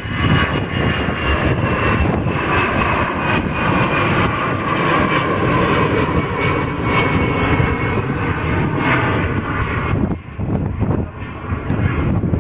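Airliner passing close by, its engines loud with a whine that falls slowly in pitch as it goes past, then dying down about ten seconds in.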